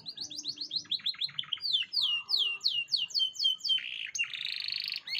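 Domestic canary singing: a fast run of short downward-sweeping notes, then slower, louder sweeping notes, breaking into a buzzy rattling trill near the end.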